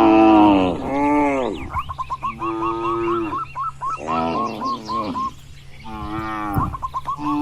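Cattle mooing: about five long, drawn-out moos one after another, the loudest right at the start, with short repeated higher calls between them.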